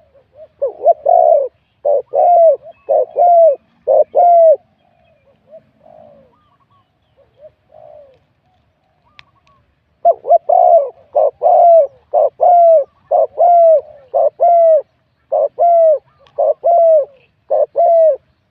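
Spotted dove cooing in two runs of short, falling coos, separated by a few seconds of quieter notes.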